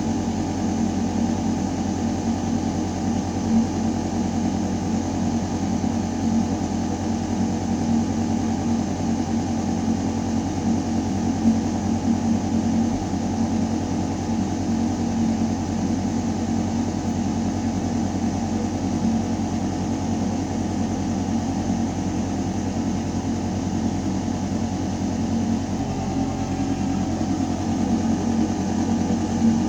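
Building ventilation system running in a shaft: a steady low mechanical hum with air rushing through metal ductwork. There is a slight change in its tone near the end.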